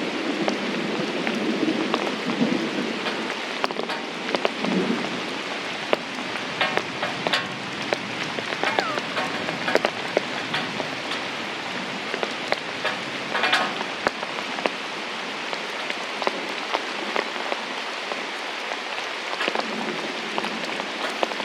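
Heavy rain falling steadily on a surface, with many individual drops ticking and splattering through it. A few brief high chirps come through near the middle.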